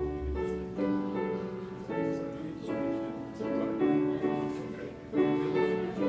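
Piano music starts suddenly and plays on, with chords changing about once a second.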